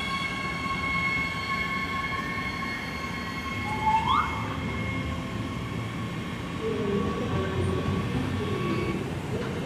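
Two coupled class 462 Siemens Desiro HC electric multiple units running past: a steady rumble of wheels on rail under a high whine in several tones that fades out around the middle. About four seconds in there is a short rising squeal.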